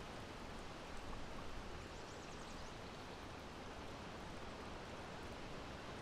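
Steady wind blowing, an even rushing noise heaviest in the low end, with a faint rapid high ticking for a moment about two seconds in.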